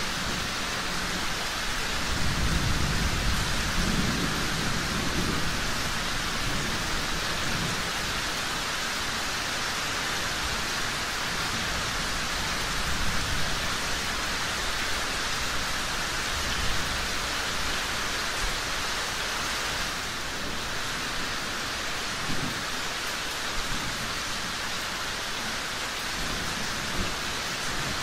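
Steady, even rain falling, with a low rumble of thunder that swells about two seconds in and fades a few seconds later. A handful of brief pops stand out near the middle and toward the end.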